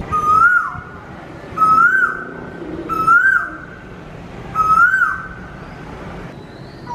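A whistled call repeated four times, about one every second and a half. Each call is a held note that rises and then drops quickly, over a steady hiss.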